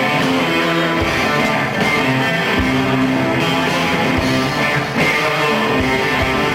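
Live rock band playing an instrumental passage without vocals, guitar to the fore, with a few low drum hits.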